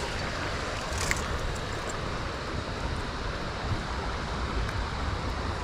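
Steady rush of creek water, with uneven low wind rumble on the microphone and a light tick about a second in.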